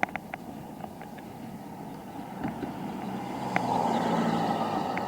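A car passing on the road, its tyre and engine noise swelling about three and a half seconds in. There are a few sharp clicks before it.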